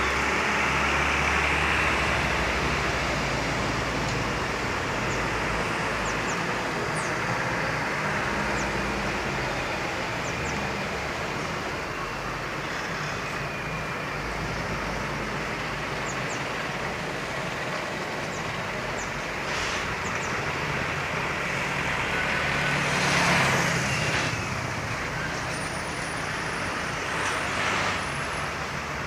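Steady road traffic noise from a passing truck convoy. It swells as a vehicle goes by close about 23 seconds in, and again briefly near the end.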